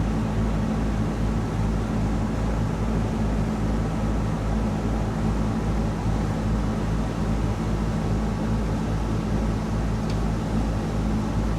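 A 38-foot cruising yacht's engine droning steadily under way, a low hum with a steady hiss over it.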